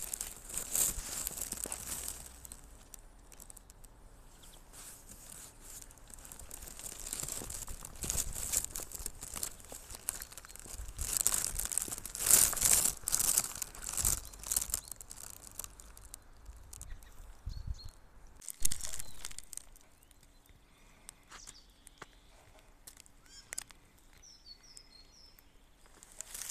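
Footsteps crunching in fresh snow, irregular crackly crunches that come and go, loudest in the middle stretch and quieter towards the end. A few faint bird chirps come in near the end.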